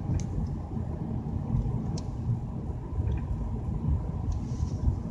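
Car driving slowly, with a steady low road and engine rumble heard from inside the cabin; two faint clicks, near the start and about two seconds in.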